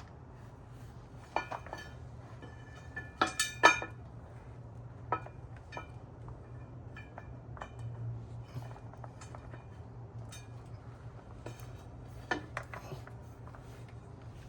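Small metal parts (washers and bolts) clinking and clattering as they are handled and fitted during motorcycle reassembly, in scattered sharp clinks with a brief cluster about three and a half seconds in. A steady low hum runs underneath.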